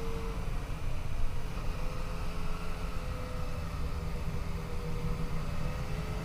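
Yamaha FJ-09's 847 cc three-cylinder engine running at a fairly steady, moderately wavering pitch as the motorcycle rides along. Heavy low wind rumble on the microphone is the loudest part.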